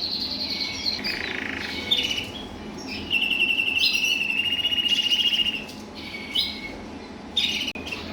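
Male colour canaries singing: a run of varied chirps and rapid trills, with one long, fast trill starting about three seconds in and lasting over two seconds.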